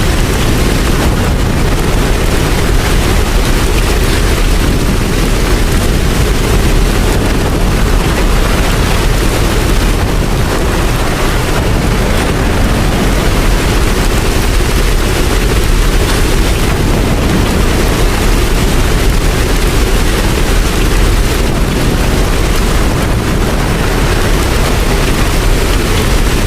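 Steady heavy rain, a dense, even hiss with a deep rumble underneath, unchanging throughout.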